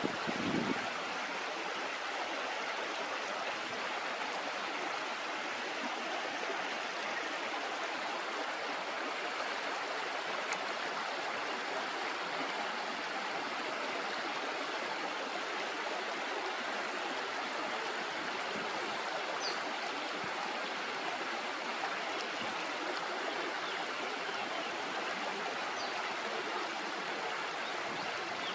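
River water flowing steadily over shallows: a constant rushing wash. A couple of faint, short, high bird chirps come through in the second half.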